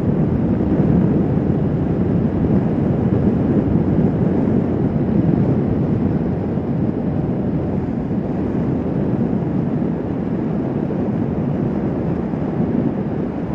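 Motorcycle riding at road speed, heard from the rider's camera: a steady mix of engine and wind rush, easing slightly in the second half.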